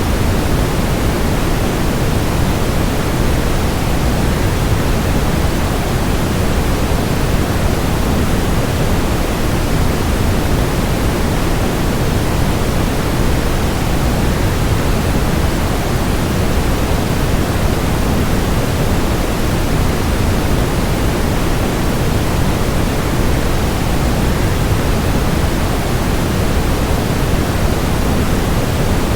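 Waterfall sound mixed with white noise: a steady, unchanging rush, heavier in the low end.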